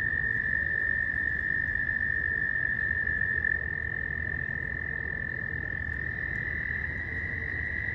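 A pond chorus of many frogs calling together, making a steady, unbroken high trilling drone: the breeding-season mating call.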